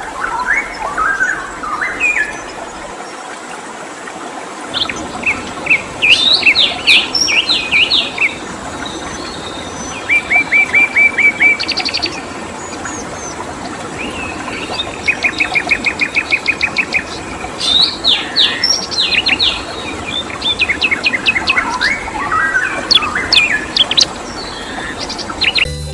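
Songbird singing in repeated bursts of clear whistled phrases and fast trills of one note rapidly repeated, over a steady background hiss.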